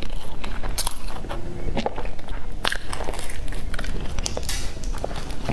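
Close-miked chewing of a mouthful of soft bread bun with a crumbly topping: irregular wet mouth clicks and small crackles, over a low steady hum.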